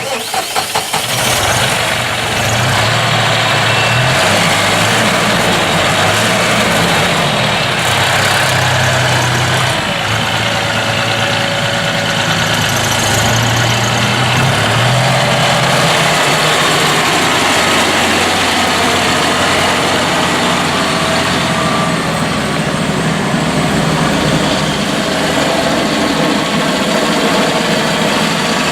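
John Deere 5075M's three-cylinder turbo diesel engine starting up, pulsing for about a second before it catches, then running at a steady idle.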